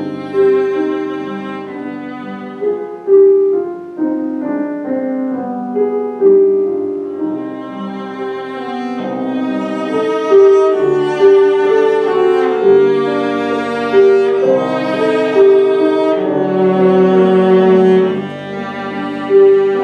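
Cello playing a sustained, singing classical melody with piano accompaniment, the line growing fuller and louder from about halfway through.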